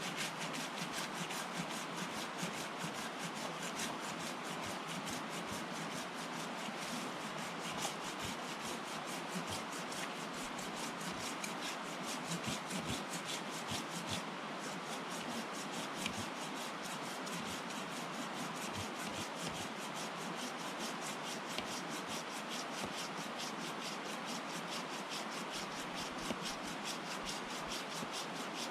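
Brook water running: a steady, even rushing noise with no separate events.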